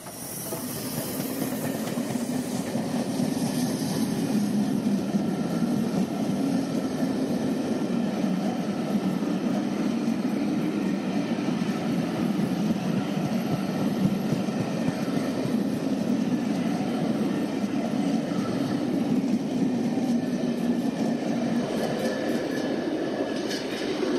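A train passing through a station: a Class 31 diesel locomotive hauling the steam locomotive 60163 Tornado and a coach, with engine and wheel-on-rail noise. It builds over the first few seconds, holds steady, and cuts off suddenly at the end.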